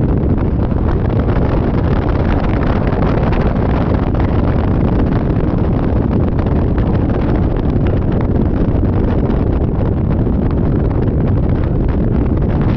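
Wind buffeting the microphone on a moving Yamaha Majesty 400 scooter: a loud, steady rush of wind noise, heaviest in the low end, with no letup.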